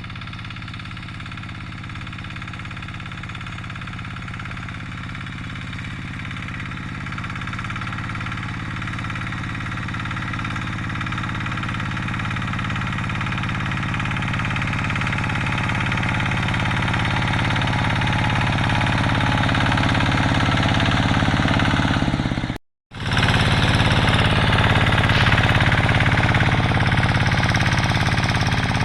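Quick G3000 two-wheel hand tractor's diesel engine running steadily with a knocking beat, working the plow, and gradually growing louder. About three-quarters of the way through it cuts out for an instant, then comes back louder.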